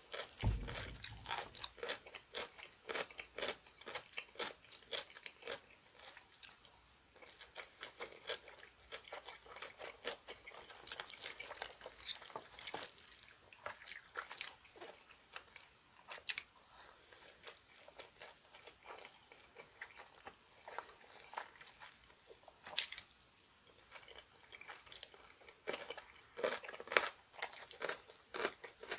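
A person chewing close to the microphone while eating spicy chicken feet and seaweed rice balls: wet chewing broken by many small crunches and clicks, with one sharper crunch about three-quarters of the way through.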